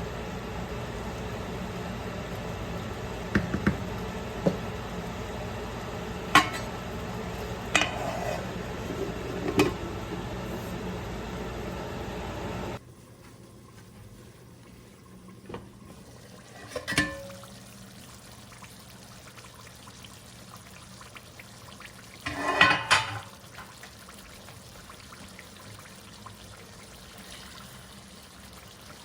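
Kitchen utensils knocking and clinking against pots and dishes over a steady hum, with several sharp clanks. About 13 seconds in the hum cuts off, and a few more clanks follow against a quieter background, the loudest cluster near the 23-second mark.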